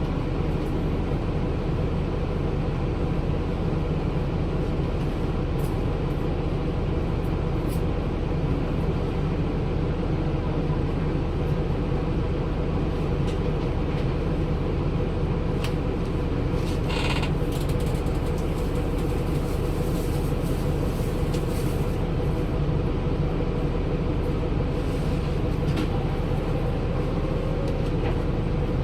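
Daewoo BS106 city bus's Cummins ISL Euro 6 diesel, a 300 PS inline-six, running with a steady low drone. A brief higher-pitched sound cuts in partway through.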